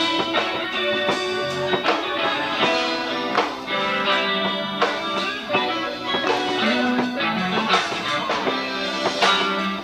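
Live band playing an instrumental passage: electric guitar over bass guitar, drums and bongos, with a steady beat of drum strikes.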